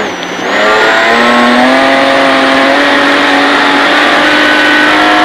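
BMW 325ti Compact rally car's engine, heard from inside the cabin: it dips briefly at the start, then accelerates, its pitch climbing slowly and steadily.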